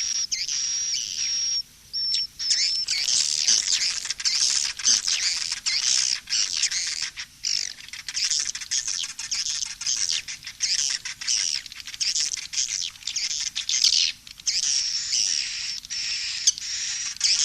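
Swiftlet lure-call track: dense, rapid chirping and twittering of swiftlet calls, with a steady high whistle-like tone in the first two seconds or so and again near the end. It is a 'suara panggil' calling mix, played to draw swiftlets into a nesting house.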